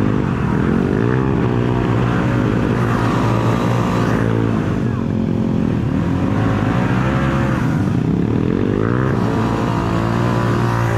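Off-road motorcycle engine revving up and down several times, as in riding through mud.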